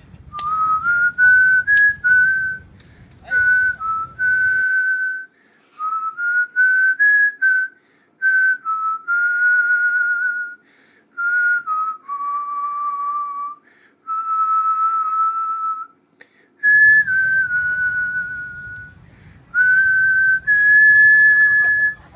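A person whistling a slow tune: clear single-pitched notes held for up to a couple of seconds, stepping up and down in pitch with short breaks between phrases.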